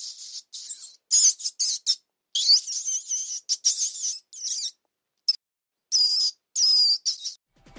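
A mouse squeaking: a series of short, high-pitched squeaks coming in quick bursts with brief pauses between them.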